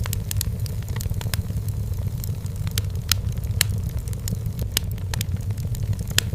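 Wood fire burning in a fireplace: irregular sharp crackles and pops, about one or two a second, over a steady low rumble.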